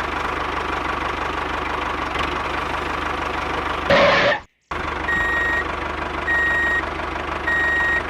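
A small motor running steadily, with a brief louder burst about four seconds in before it cuts off. After a short gap it runs again under an electronic reversing beeper that sounds three times, about once every 1.2 seconds.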